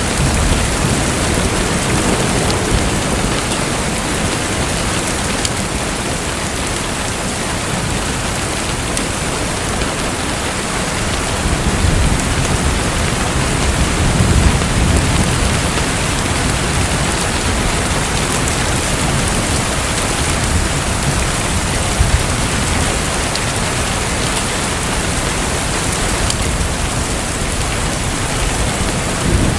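Steady rushing water noise, with low rumbles swelling about midway and again near the end.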